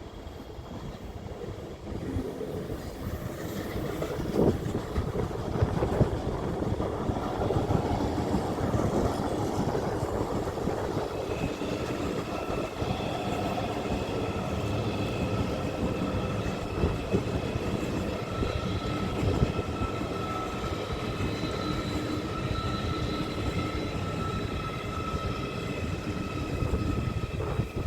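A train running through a station: steady rolling noise with a few sharp knocks from the wheels on the rail, and from about the middle on several steady high-pitched tones from the train's machinery or brakes.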